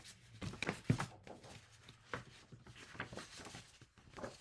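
Handling noise: a series of soft knocks and rustles, the loudest about a second in.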